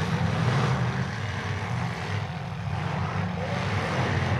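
Engines of several bone stock demolition derby cars running at once on the track, a steady low engine note with a noisy haze above it.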